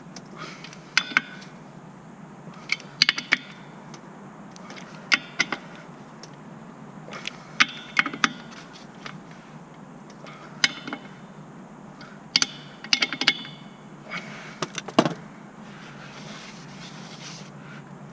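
Hand tools and metal parts clinking and clanking as they are handled during clutch work on a car. The sharp metallic taps ring briefly and come singly or in quick clusters of two or three, roughly every two seconds.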